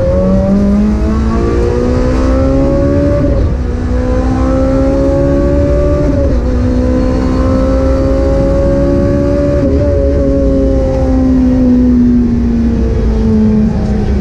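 Honda Civic Type-R FN2's 2.0-litre four-cylinder VTEC engine under hard acceleration, heard from inside the cabin. The revs climb slowly, with brief lifts about 3, 6 and 10 seconds in. The note then falls before picking up again near the end, over steady tyre and road noise.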